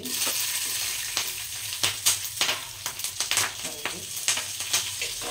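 Tadka sizzling in a frying pan: mustard and cumin seeds crackling in hot oil. The hiss jumps up at the start as chopped green and red chillies are pushed in from a plate, with sharp pops scattered over it.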